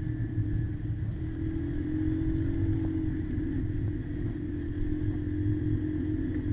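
Kymco Maxxer 300 quad's engine running steadily under way, with a slight rise and fall in level.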